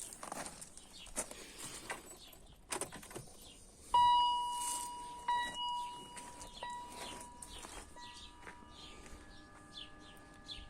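Ignition switched on in a BMW E39 to prime its replacement LADA 2110 electric fuel pump while a gauge reads the fuel pressure. About four seconds in, a ringing chime-like tone sounds and fades, struck again a second later. After that a faint steady whine comes in as the pump builds pressure. Birds chirp throughout.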